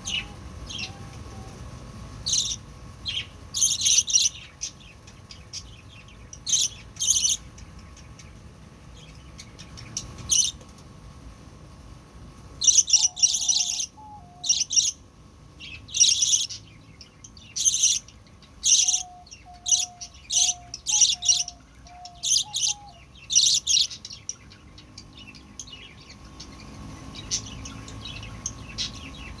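Young burung baji bird chirping: short, loud, high-pitched chirps coming in irregular clusters with pauses between. A fainter, lower note repeats in quick runs twice.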